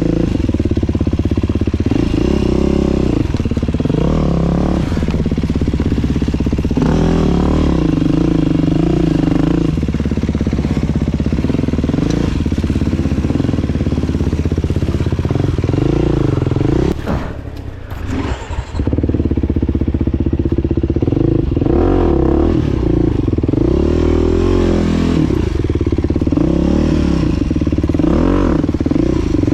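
Dirt bike engine revving up and down under throttle while riding a trail. The throttle eases off briefly a little past the middle, then the engine picks up again.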